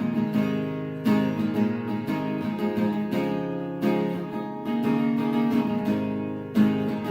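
Acoustic guitar strummed in a steady rhythm with no singing: an instrumental passage of the song, with a hard accented strum about every three seconds.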